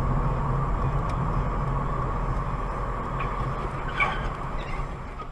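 Steady running noise of a moving vehicle, engine hum and road noise, with a short sharper sound about four seconds in.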